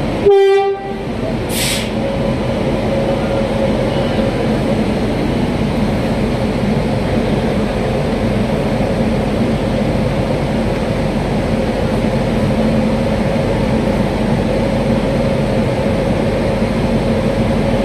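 A passenger train's horn gives one short blast, followed a moment later by a brief hiss. After that the train keeps up a steady rumble with a low hum.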